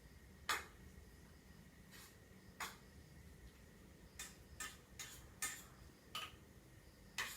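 Alexandrine parrot's beak clicking and tapping against hard objects: about a dozen sharp, irregular clicks, bunched closer together around the middle.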